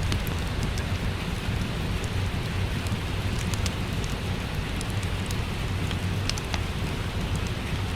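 Steady rain with a low rumble underneath, mixed with the scattered sharp crackles of a wood fire in a fireplace.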